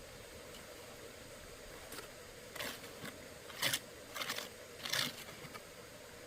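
Five short scraping strokes, irregularly spaced about half a second to a second apart, over faint steady background noise.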